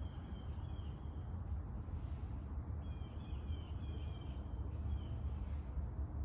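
A bird calling a run of short, evenly repeated high notes, once briefly at the start and again in a longer run about three seconds in, over a steady low rumble.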